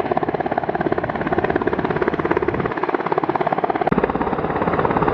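U.S. Coast Guard helicopter hovering, its rotor giving a steady, rapid chopping, very noisy.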